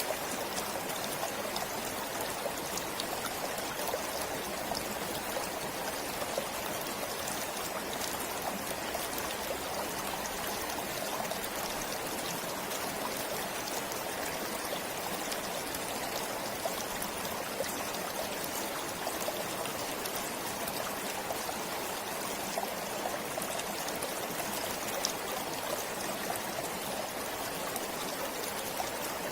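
Forest stream flowing steadily over stones, a continuous rushing with fine trickling and splashing.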